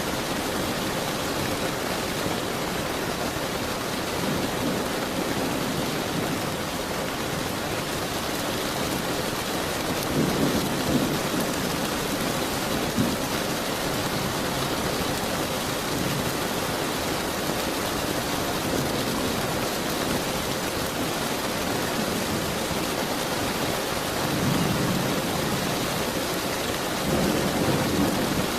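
Steady rain falling, with low rolls of thunder rumbling a few times: about ten seconds in, and again twice in the last few seconds.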